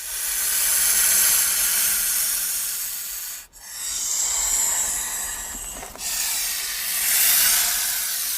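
Snake hissing: long, steady hisses with brief breaks about three and a half and six seconds in.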